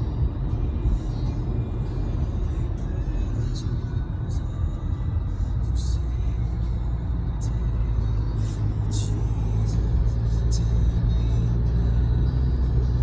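A car driving, with a steady low rumble and short sharp ticks over it, and music playing alongside.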